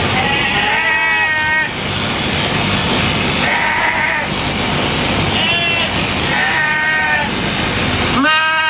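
Sheep bleating, about four calls a second or two apart, the last one the loudest and cut short near the end, over the steady running of electric sheep-shearing clippers.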